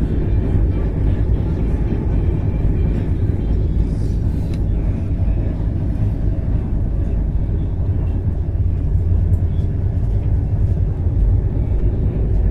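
Steady low rumble of a train, unbroken throughout, with faint scattered clicks above it.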